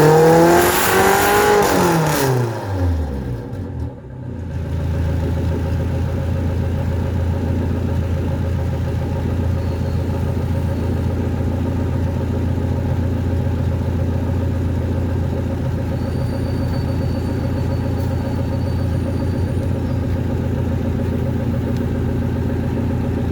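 Mitsubishi 4G33 1.4-litre four-cylinder carbureted engine, fitted with a Toyota 5K carburetor, finishing a rev: the pitch peaks about a second in and falls away over the next few seconds. It then settles into a steady idle.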